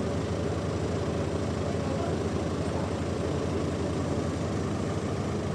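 Sawmill machinery running steadily: a low engine-like drone with a fast, even pulse.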